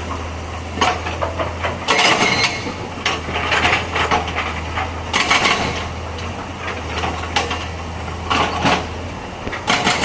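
Excavator diesel engine running with a steady low hum, under irregular knocks and clatter several times over, loudest around two seconds in and again around five seconds in.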